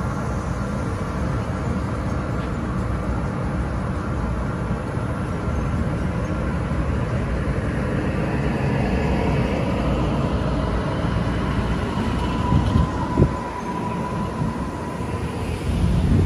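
Coast-line passenger train running on the rails, a steady rumble heard from inside the carriage. A faint whining tone comes in over the second half, with a sharp knock about thirteen seconds in.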